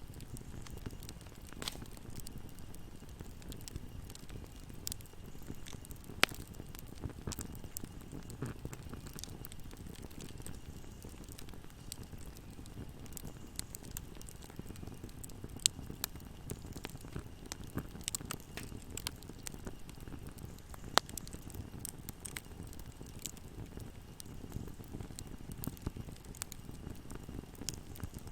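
Wood fire burning in a fireplace: a steady low rumble of flames with scattered crackles and pops, three sharper pops standing out at about 6, 16 and 21 seconds in.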